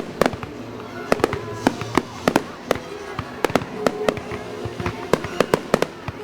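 Aerial fireworks shells bursting in a rapid, irregular series of sharp bangs, about two to three a second, with music playing underneath.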